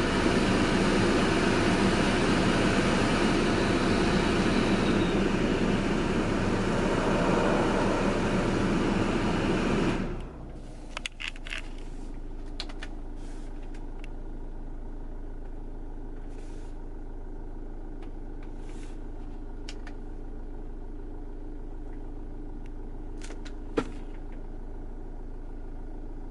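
Car noise: a loud steady rush for about ten seconds, then it drops suddenly to a quiet steady hum with a few light clicks and one sharp click near the end.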